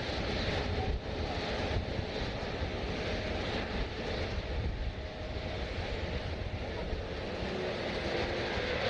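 Jet airliner engines running, a steady rumble and hiss with no speech.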